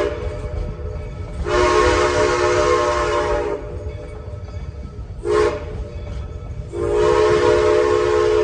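Locomotive whistle sounding a chord in two long blasts, a short one and another long one, the long-long-short-long pattern of a grade-crossing signal. The train rumbles steadily underneath.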